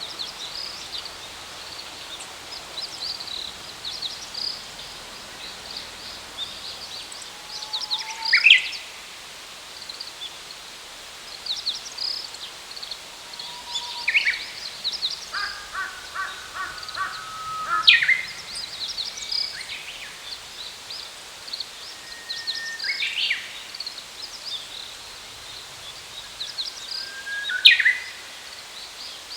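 Birds calling over a rural field: a steady chorus of high, quick chirps, with louder sharp sweeping calls about every four to five seconds and a short run of repeated notes about halfway through.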